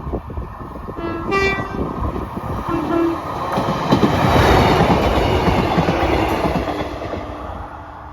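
Train sounding its horn on the approach: a higher note about a second in, then a short lower one near three seconds. The train then passes over the level crossing, its rumble and wheel clatter building to a peak midway and fading toward the end.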